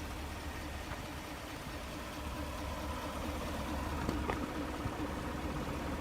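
The 2017 GMC Sierra Denali's 6.2-litre EcoTec3 V8 idling steadily, with two faint clicks a little after four seconds in.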